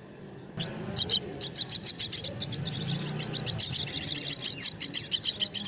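Common myna nestlings calling: a sudden, fast stream of short, high-pitched calls starting about half a second in and running on several to the second, typical of chicks begging for food.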